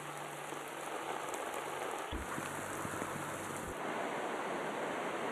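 Heavy rain falling on a flooded street, a steady rushing noise, with a faint low hum and two dull thumps about two seconds and three and a half seconds in.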